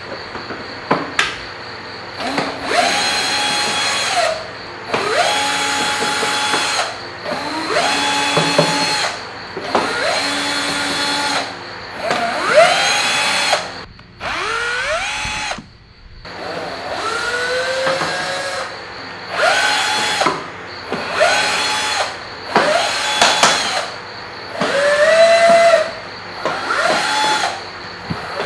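Power drill running in about a dozen short bursts of one to two seconds, its motor whine climbing in pitch as each burst starts, while screws are driven out of a car's dashboard.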